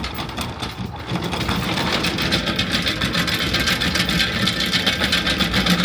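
A boat's motor running steadily with a rapid, even clatter, growing a little louder over the first couple of seconds.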